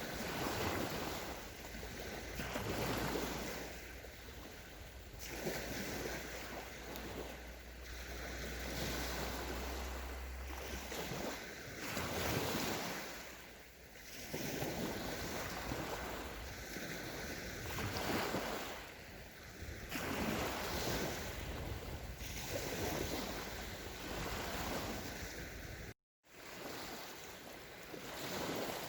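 Small sea waves breaking and washing up a sandy beach, a fresh surge every two or three seconds. A low rumble sits under the first ten seconds or so, and the sound cuts out completely for a moment about three seconds before the end.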